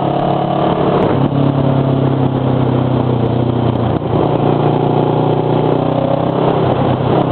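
Kawasaki Ninja 650's parallel-twin engine running while riding. The engine note changes pitch about a second in and again about four seconds in, where the sound dips briefly, as with gear changes. A steady rush, probably wind, runs underneath.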